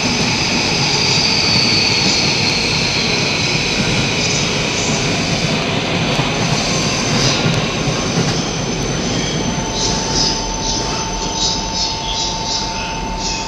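Yamanote Line E235-series electric commuter train running past on a platform track, with a steady rumble of wheels on rail. A high whine falls in pitch over the first few seconds. From about two-thirds of the way in, a steady mid-pitched tone comes in with a run of short high wheel squeals as the train moves away.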